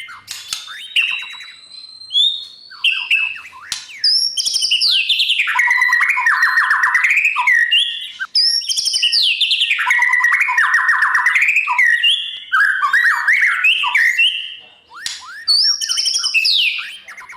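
White-rumped shama singing a loud, varied song of whistled slides, sharp notes and rapid trills, delivered in long rich phrases with short pauses between.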